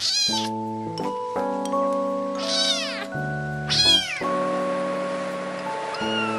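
Kittens meowing: three loud, high-pitched meows, each dropping in pitch at its end, and a fainter one near the end, over background music with long held notes.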